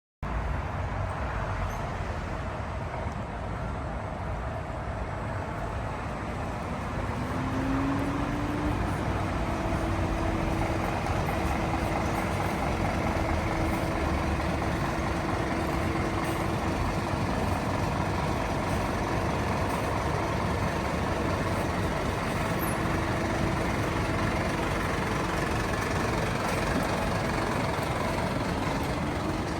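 Heavy fire truck engine running under a steady road and traffic rumble. Its engine note rises about seven seconds in and then holds steady, as the truck pulls away and drives.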